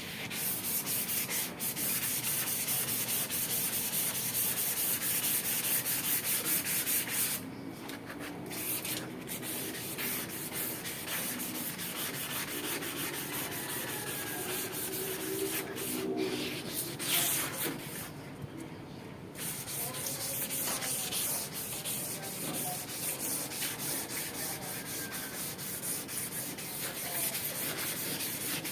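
Abrasive being rubbed by hand over the rusted metal of an exhaust hood in quick back-and-forth strokes, breaking off briefly twice.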